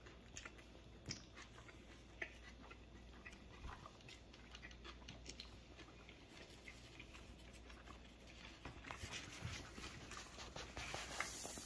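Faint mouth sounds of a person chewing a soft fish taco, with scattered small clicks. About nine seconds in, a paper napkin rustles as it is picked up and used to wipe the mouth.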